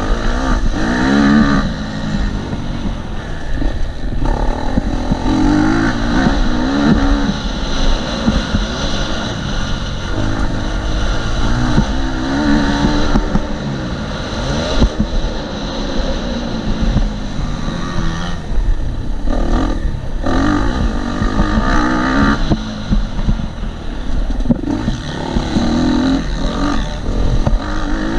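KTM 250 SX-F four-stroke single-cylinder dirt bike engine being ridden hard, revving up and dropping back again and again as the throttle is opened and shut.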